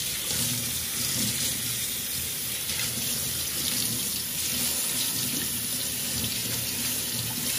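Kitchen tap running steadily, water pouring over salted mackerel as the salt is rinsed off.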